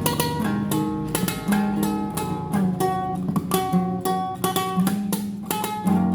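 Solo classical guitar playing a tremolo passage: quick repeated plucked notes in the treble over a slower bass line.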